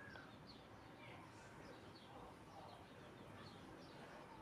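Near silence with faint birds chirping in the background: short, high, falling chirps repeating several times a second.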